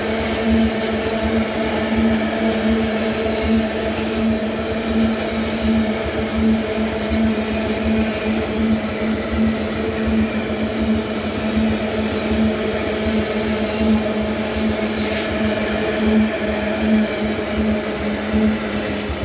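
Loaded iron-ore gondola wagons rolling past close by: steel wheels running steadily on the rails, with a constant droning tone over the rumble.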